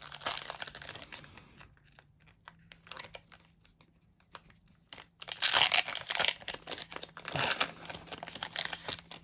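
Foil Pokémon booster pack wrapper being crinkled and torn open, a run of dry crackling that is loudest and densest just past halfway.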